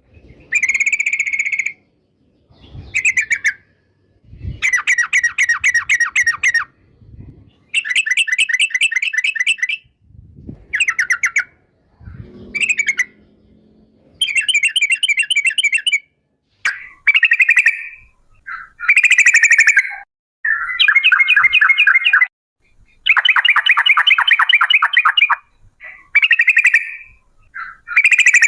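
Yellow-vented bulbul (trucukan) song: a run of fast, rattling trilled phrases, each a second or two long with short pauses between. This is the long rolling 'ropel' chatter that is played to lure other trucukan into singing.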